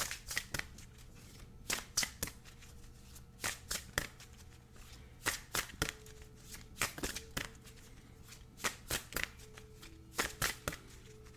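A deck of oracle cards being shuffled by hand: irregular soft clicks and slaps of cards against each other in small clusters, with brief pauses between.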